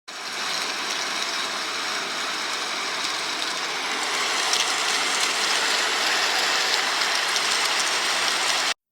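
Steady rushing, rain-like noise with faint crackles, cutting off abruptly near the end.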